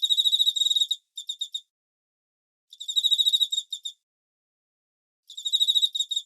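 Cricket chirping: four bouts of rapid, high-pitched pulsed chirps, each lasting up to about a second, with gaps of silence between them.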